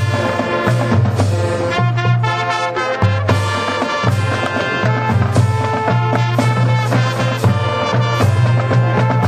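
Marching band playing: sustained brass chords over low brass notes, with drum strikes keeping the beat.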